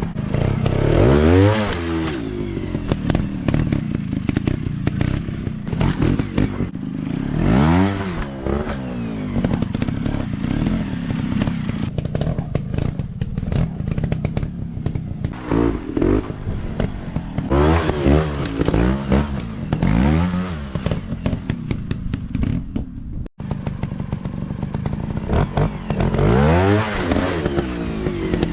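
Small dirt-bike engines over a steady drone, repeatedly revving up with a sharply climbing pitch and dropping back, about six times. A brief dropout comes a little past three-quarters of the way through.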